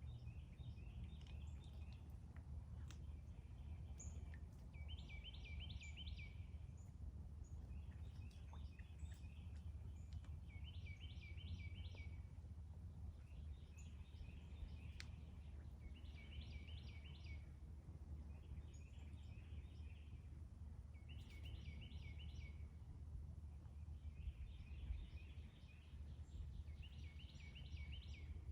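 A pair of birds chirping back and forth in short, quick trills, a fainter phrase and a brighter one taking turns every few seconds, over a steady low hum.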